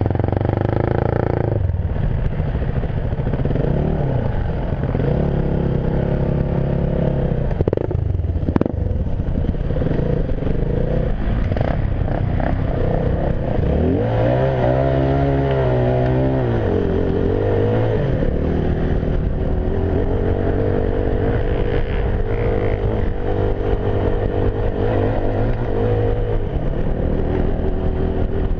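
Yamaha WR250F enduro motorcycle's single-cylinder four-stroke engine running under changing throttle as it rides off-road, its revs rising and falling repeatedly, with one sharp rev up and back down about halfway through. A sharp knock about eight seconds in.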